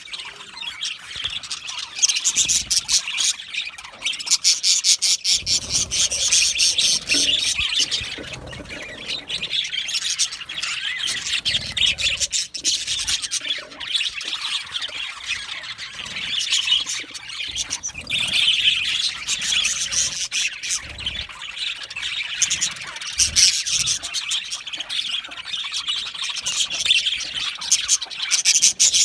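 Budgerigars chattering and chirping continuously, a dense run of rapid high warbling notes with no break.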